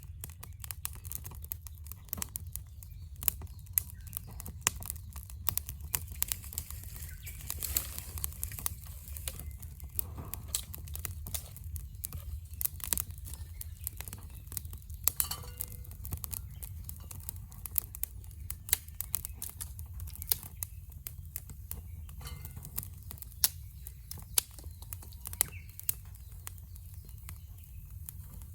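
Wood fire crackling: frequent irregular sharp pops and snaps over a steady low hum.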